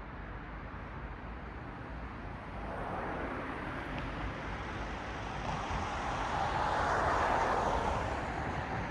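A car passing on the road over a low traffic rumble: its tyre noise swells from about three seconds in, is loudest about seven seconds in, then eases off near the end.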